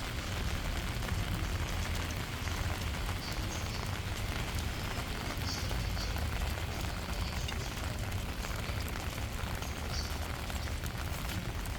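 Steady rain falling, an even hiss with a constant low rumble underneath. A few faint, short, high chirps come through about three seconds in, again mid-way and near the end.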